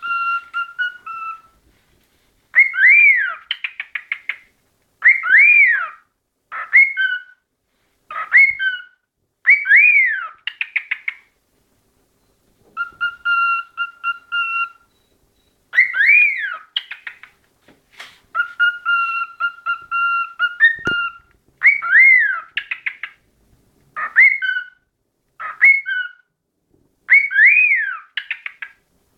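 Cockatiel whistling its song: repeated arched whistles that rise and fall, each followed by a quick chattering run of short notes, with a couple of long, level whistled notes held for a second or two in the middle.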